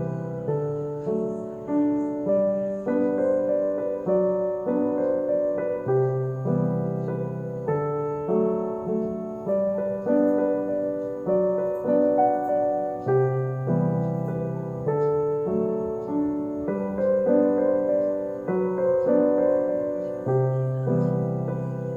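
Background piano music: a slow, gentle melody of single notes over low bass notes, each note struck and left to fade.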